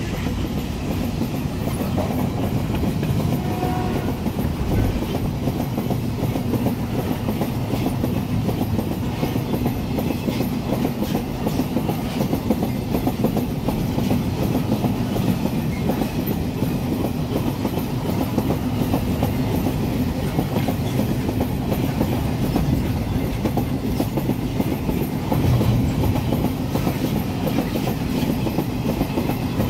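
Iron-ore freight wagons rolling past close by: a steady rumble of steel wheels on the rail, with a dense run of small clicks and knocks as the wheels and bogies go by.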